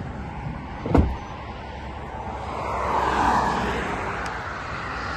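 A sharp knock about a second in, then a vehicle passing on the road, its noise swelling and fading over a couple of seconds.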